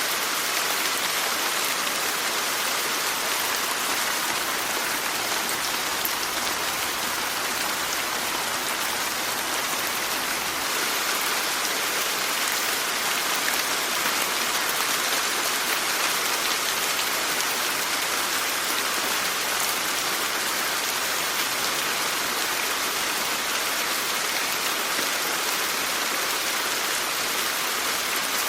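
Steady rain falling on surfaces, an even hiss of many drops with fine patter and no change in strength.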